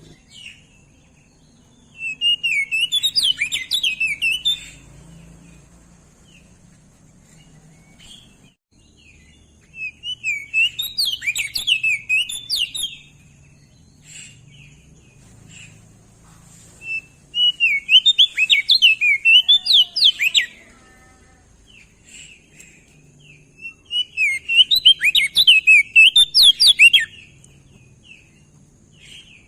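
An opior jambul (crested darkeye) singing four bouts of quick, rapid-fire warbling notes, each about three seconds long, with faint single chips between the bouts.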